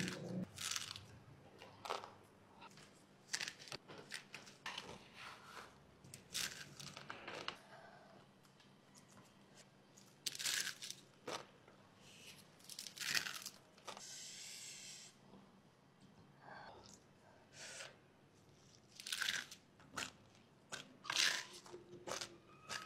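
Crisp crunching and chewing of stick noodles (mie lidi) coated in chili oil, in irregular bites: a loud crunch every few seconds with quieter chewing between.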